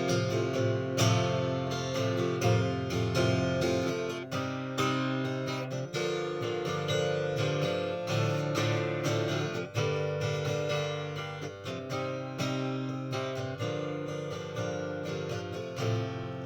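Acoustic guitar strummed in an instrumental break, the chords changing every few seconds; a last strum near the end is left to ring out and fade.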